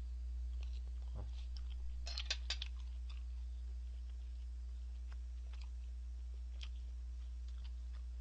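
A person chewing a mouthful of pan-fried beef steak, with faint mouth clicks and a quick run of sharper clicks about two seconds in, over a steady low hum.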